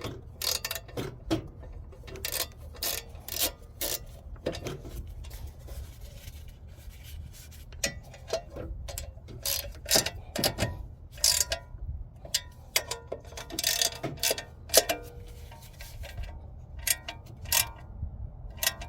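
Hand ratchet wrench clicking in short, irregular runs as bolts are tightened.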